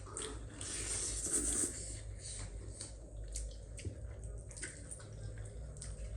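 Wet eating sounds of spicy instant noodles being slurped and chewed, with many small smacks and clicks and a longer slurp in the first couple of seconds.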